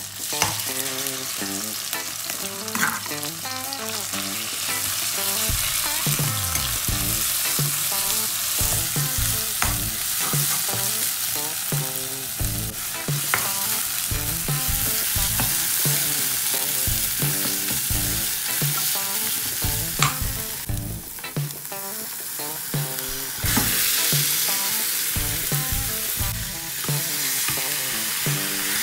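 Northern Thai curry paste frying in oil in a nonstick wok, sizzling steadily while a spatula stirs and scrapes it around the pan.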